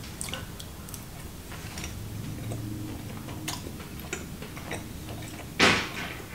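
A person chewing a mouthful of bratwurst, with faint small mouth clicks, and one short loud breath out about five and a half seconds in.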